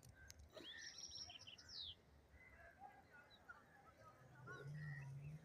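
Faint outdoor ambience with small birds chirping: a quick run of high chirps in the first two seconds, then scattered fainter calls. A low steady hum comes in about four seconds in.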